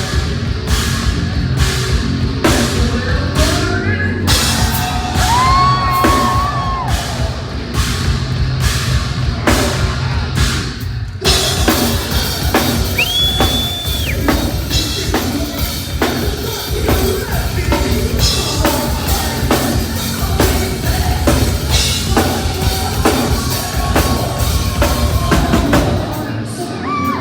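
Heavy metal band playing live and loud: a busy drum kit hitting rapidly under singing with a few long held notes.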